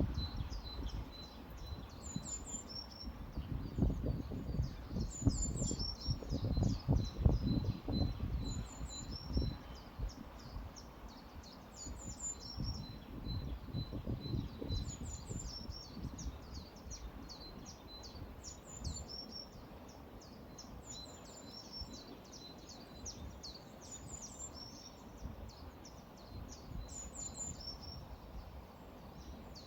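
Songbirds singing, one repeating a short high phrase every couple of seconds along with quick runs of short notes, over the low, uneven rushing of a flowing river that is louder in the first half.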